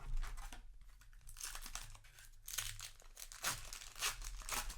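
Crinkling and tearing of a Magic: The Gathering booster pack's plastic-foil wrapper, in several rustling bursts.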